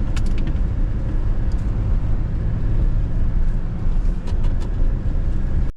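Steady low rumble of engine and road noise heard from inside a moving car, with a few light clicks. The sound cuts out abruptly at the very end.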